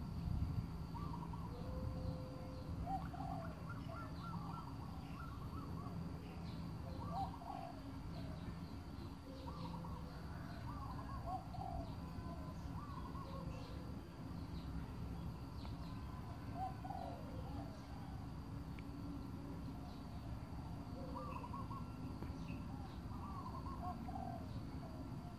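Birds calling again and again, short rising-and-falling notes, over a low steady rumble with a faint steady high whine underneath.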